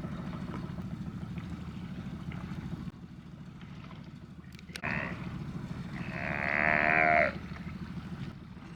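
Sea lions bellowing: a short call about five seconds in, then a longer, louder one, over a steady low hum.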